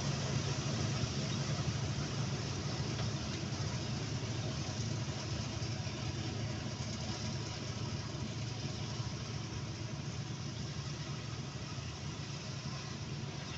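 Diesel farm machinery engine running steadily under a broad mechanical rush, gradually growing fainter.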